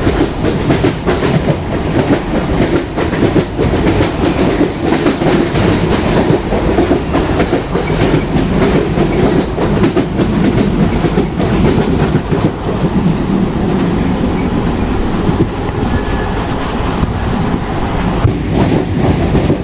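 Train running on rails: a continuous rumble with the clickety-clack of wheels passing over rail joints. The clatter eases into a smoother stretch a little past the middle, then picks up again near the end.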